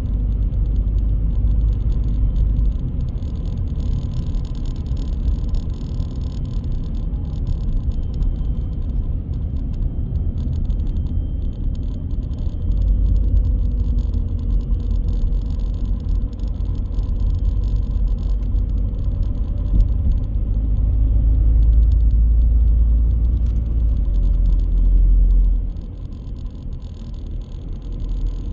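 A car driving: a steady low rumble of engine and road noise, which drops quieter near the end.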